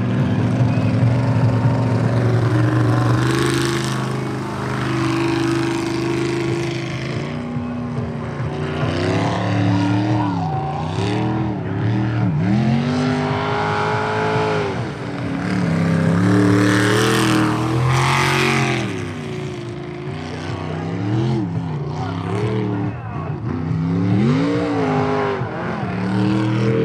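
Sprint boat engine racing through the course. Its revs rise and fall again and again as it runs through the turns, with a few bursts of rushing noise.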